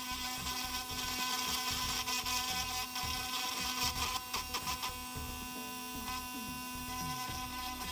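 Small handheld drill running with a steady whine, its bit grinding rusted paint out of a stone chip in car paint. Rougher, scratchy grinding comes and goes in the middle.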